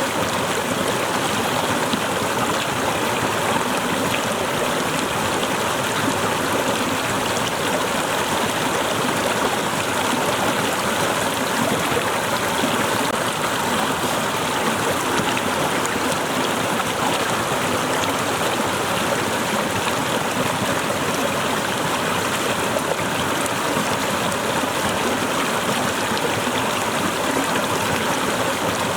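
Small waterfall splashing and running steadily over ice-covered rocks, an even rushing without pauses.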